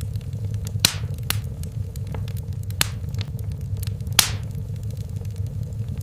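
Wood fire burning in a fireplace: a steady low rumble of flames with scattered sharp crackles and pops, the loudest about a second in and about four seconds in, the later one trailing off in a short hiss.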